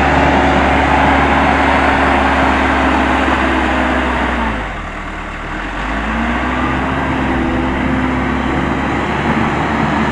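Case 580M backhoe loader's diesel engine running at working revs. About four and a half seconds in, the revs drop away for a second or so, then climb back up and hold.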